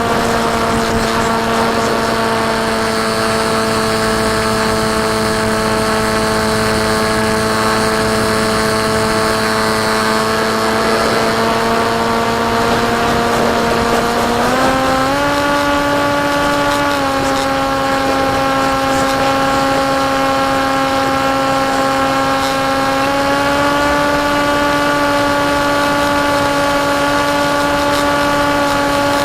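Electric motor and propeller of a KT Wing FPV flying wing running steadily at cruise, a constant whine that steps up in pitch about halfway through as the throttle is raised, then settles with small shifts, over a steady rush of noise.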